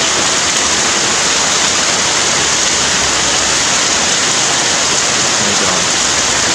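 Heavy rain pouring down, a loud, steady hiss without let-up.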